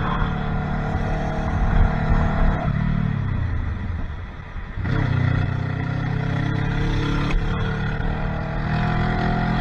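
Car engine running steadily, its revs falling away about three seconds in and picking up again sharply about two seconds later.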